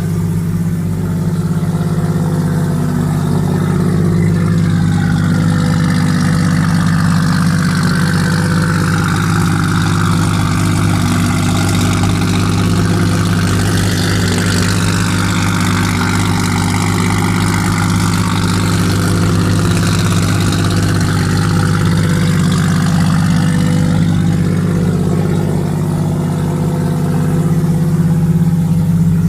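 Mazda 20B three-rotor turbocharged Wankel engine in an RX-7 race car idling steadily, with a gentle waver in its tone. The idle is stable after setup, though the owner suspects the ignition timing is still off.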